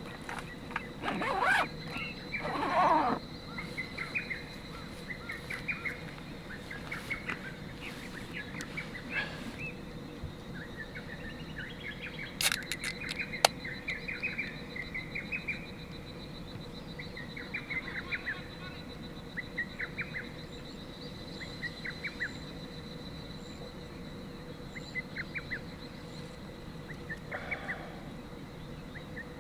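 Small birds chirping in short, scattered calls, over a faint steady high-pitched tone. Two louder, fuller noises come in the first three seconds.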